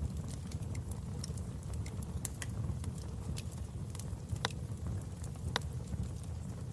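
Wood fire crackling in a fireplace: a steady low rumble of burning with scattered sharp pops, two of them louder a little past the middle.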